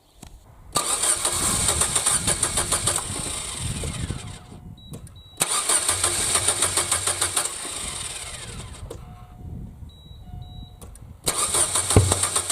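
Chevrolet Lacetti's four-cylinder engine cranked on the starter in three long attempts, each a rhythmic cranking that does not catch: the hard starting the car is in for, which needs long cranking before it fires. Short electronic beeps sound in the pauses between attempts.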